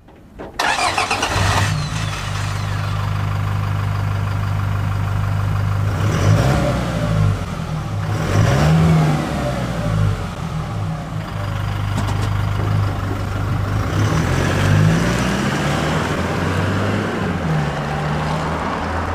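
Toyota Hilux GUN125's 2.4-litre four-cylinder turbodiesel exhaust through a Ganador P.B.S. sport muffler at low speed. The engine note comes in about half a second in, runs steadily and rises and falls in pitch a few times, then fades near the end.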